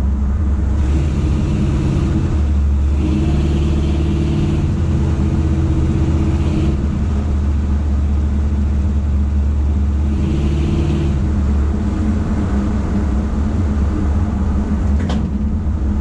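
Chevy C10 truck's exhaust running through Jones full bore single-chamber mufflers, a steady deep drone heard from inside the cab while driving. It gets louder in a few short spells: about a second in, from about three to six seconds, and around ten seconds.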